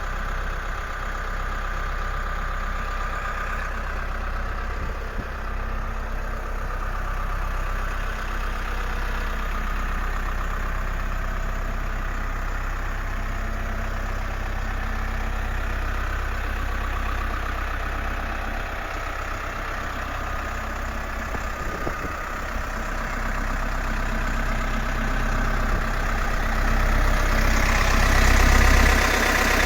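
New Holland TS100A tractor's diesel engine running steadily, growing louder over the last few seconds.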